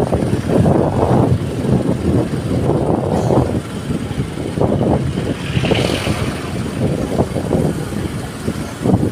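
A road vehicle on the move: a loud, uneven rumble that rises and falls, with a brief higher tone about six seconds in.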